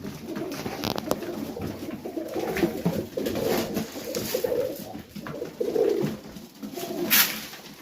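Domestic pigeons cooing one over another, low warbling calls repeating, with a few sharp clicks and rustles; the sharpest comes about seven seconds in.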